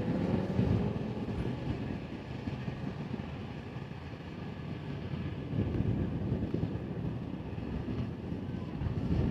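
Thunderstorm noise: a steady rush of rain and wind that swells louder about a second in and again around six seconds in.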